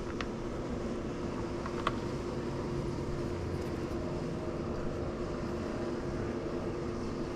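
Swimming pool pump motor running with a steady hum. Two light clicks sound near the start and about two seconds in.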